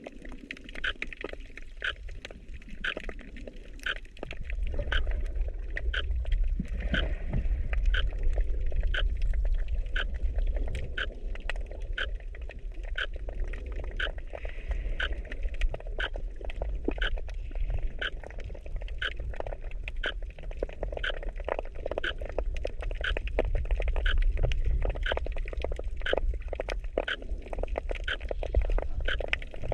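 Underwater sound picked up by a GoPro in its waterproof housing: a low rumble of moving water, louder from about four seconds in, with a steady run of faint clicks about two a second.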